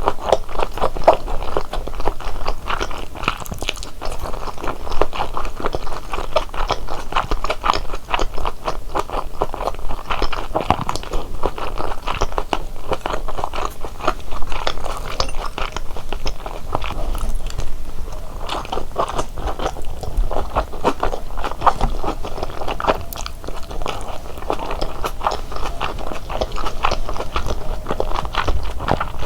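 Close-miked biting and chewing of large Korean dumplings (wang mandu): a dense, continuous stream of wet, crackly mouth clicks and crunches.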